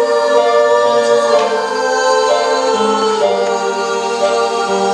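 Song with a long held sung note in layered, choir-like vocal harmony, shifting pitch a few times.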